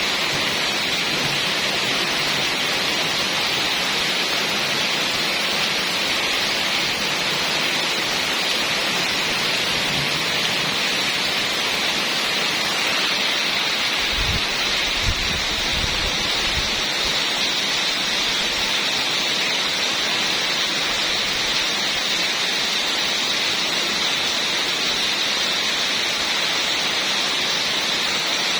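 Heavy rain falling steadily, a dense even hiss. A brief low rumble comes about halfway through.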